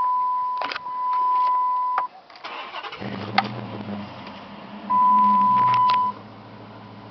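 A steady electronic dashboard warning tone sounds, then the 2006 Dodge Charger R/T's 5.7-litre Hemi V8 cranks briefly and catches about three seconds in, settling into a steady idle through its aftermarket dual exhaust. The same tone sounds again for about a second while it idles.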